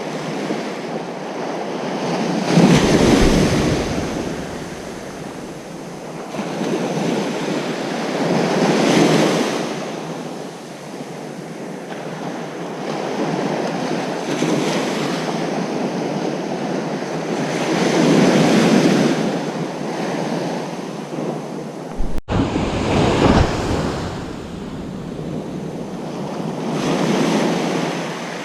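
Ocean surf breaking on a beach: a steady wash of water that swells into a louder breaking wave about every five seconds, then recedes.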